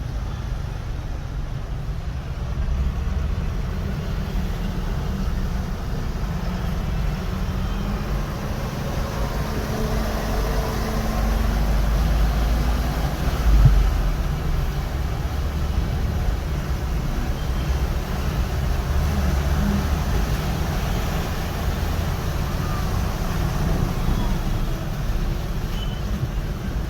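Road traffic: a steady low rumble of vehicles, with a single thump about halfway through.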